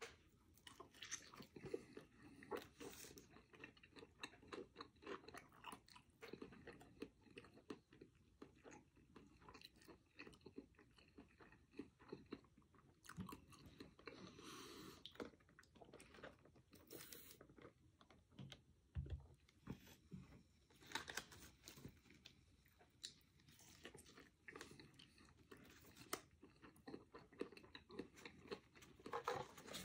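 A man bites into and chews a Wendy's Baconator bacon cheeseburger, with crunchy bites and wet chewing. About halfway through comes a sip of orange cream soda.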